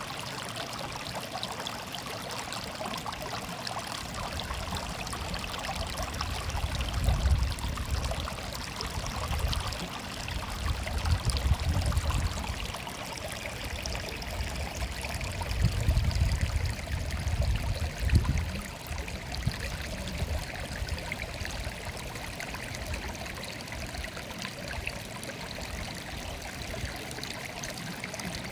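Stream water murmuring and trickling steadily. A low rumble swells up twice in the middle.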